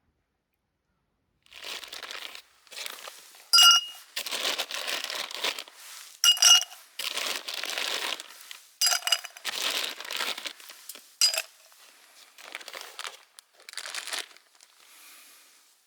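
Crinkling of plastic packaging being handled in a series of rustling bursts, with four sharp ringing clinks of hard items among them.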